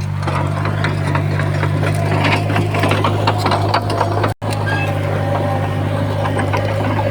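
Crawler bulldozer's diesel engine running steadily under load, with clanks and rattles of tracks and stone over it. The sound cuts out for an instant about four seconds in.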